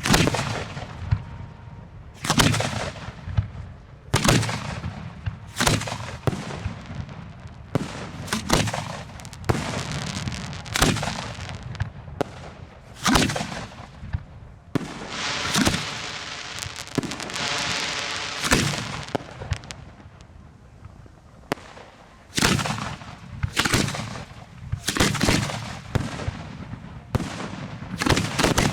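Display fireworks going off in quick succession close by: sharp booms about one a second, some in rapid clusters, with a longer hissing stretch about halfway through.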